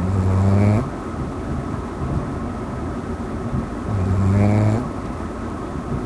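Puppy snoring: two low snores about four seconds apart, each a little under a second long, over steady background noise.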